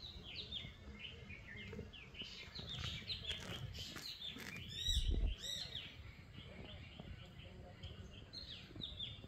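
Small birds chirping over and over in quick, short calls, with a brief low thump or rumble about five seconds in.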